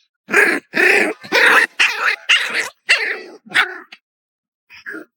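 Puppy barking: a quick run of about seven sharp, loud barks, then a couple of fainter ones near the end.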